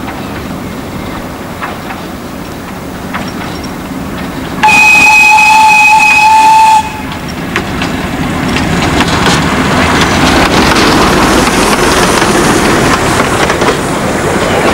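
A miniature light-railway locomotive blows its whistle once, a loud, steady, shrill note lasting about two seconds, about five seconds in. The train's rumble then grows louder as it approaches, with wheels clicking over the rail joints.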